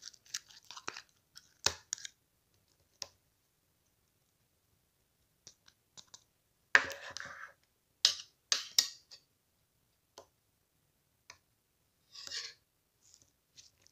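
Slime being pressed and worked by hand, giving scattered sticky clicks and pops, with a longer crackling squish about seven seconds in and a few sharp snaps just after.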